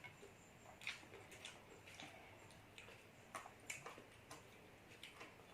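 Faint eating sounds: irregular soft clicks and smacks of mouths chewing food, about a dozen scattered through.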